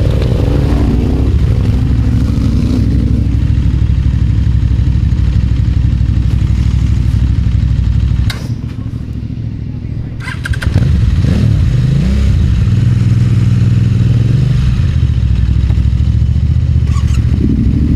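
Adventure motorcycle engine running steadily. It cuts out about eight seconds in, is started again about two seconds later with a rising rev, then runs on steadily.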